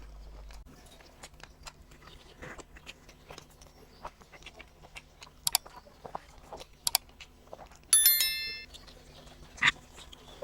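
Eating sounds from a meal of rice, dal and fried small fish: quiet chewing and scattered small clicks, with a few sharp clinks. About eight seconds in comes a short bright ringing tone, the loudest sound, like a small bell.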